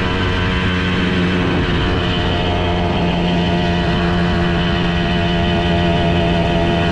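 Simson S51 moped's single-cylinder two-stroke engine with an 85 cc cylinder, running at high revs and holding a nearly steady pitch during a flat-out top-speed run.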